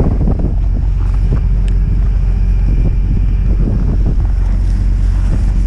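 Strong wind buffeting the microphone, a loud steady low rumble with a few faint clicks.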